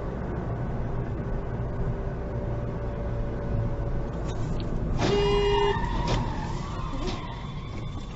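Car driving, with steady road and engine noise. About five seconds in a short horn blast sounds, followed by a wavering squeal.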